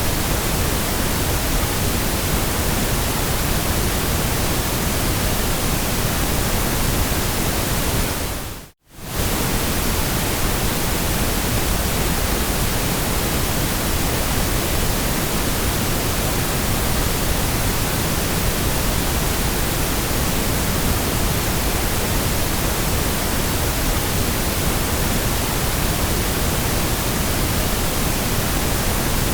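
Steady white noise: an even hiss spread across all pitches. About nine seconds in it fades out for under a second and comes straight back.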